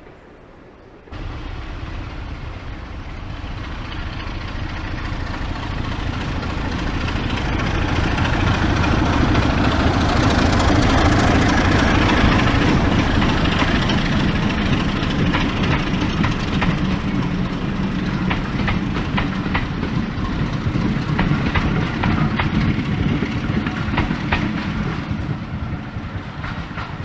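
A diesel-hauled train passing: a steady engine and wheel noise that cuts in about a second in, grows louder to a peak around ten seconds in, then slowly fades, with repeated clicks of wheels over rail joints in the later part.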